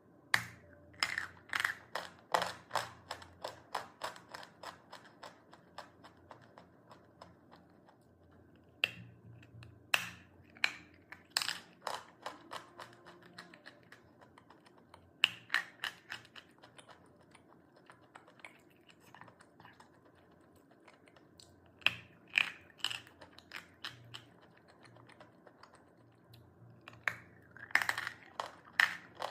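Crisp crunches and snaps of chalk being bitten and chewed, in runs of several sharp cracks a second with quieter pauses between.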